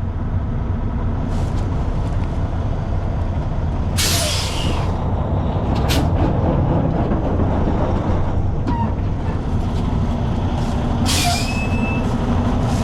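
Heavy diesel truck engine running steadily, with short bursts of air hiss from the truck's air system: one about a second long about four seconds in, a brief one at six seconds and another about eleven seconds in.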